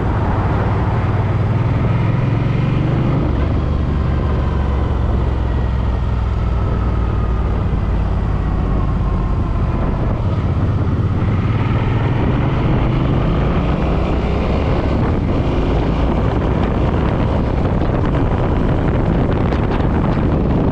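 Suzuki M50's 805 cc V-twin engine running while riding, with heavy wind buffeting on the helmet or bike camera's microphone.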